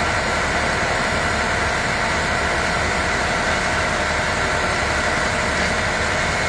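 A vehicle engine idling steadily, a constant hum with no change in speed.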